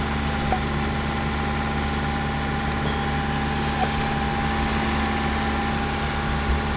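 Sailboat's inboard diesel engine running steadily at a constant speed, a steady hum with a fixed pitch.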